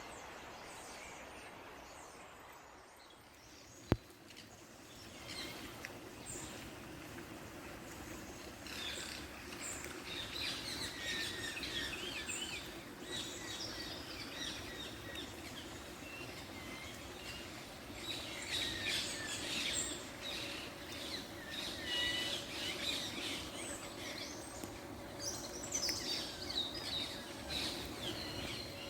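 A group of small birds chirping and calling, many short overlapping calls that grow busier partway through, over a steady low background hum. A single sharp click sounds about four seconds in.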